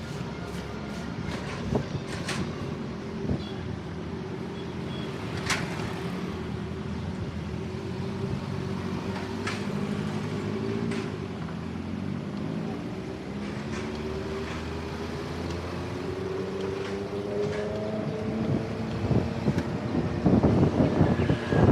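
Road traffic: a nearby vehicle engine running steadily, its pitch climbing about two-thirds of the way through as it speeds up, with a few sharp clicks. Wind buffets the microphone near the end.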